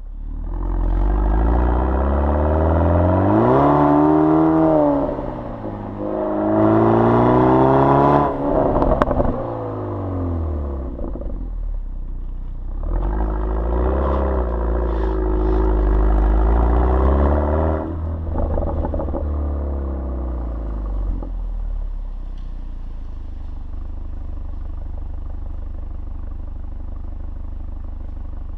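BMW 428i's turbocharged 2.0-litre four-cylinder running through an M Performance exhaust, pulling up through the gears: the engine note climbs twice with a drop at each shift, with a few sharp crackles around the second shift. It falls away as the car eases off, pulls once more, then settles to a low steady drone near the end.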